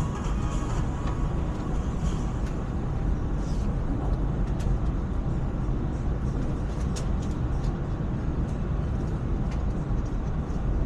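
ETS electric train running, heard from inside a carriage as a steady, low rumble with a few faint clicks and rattles.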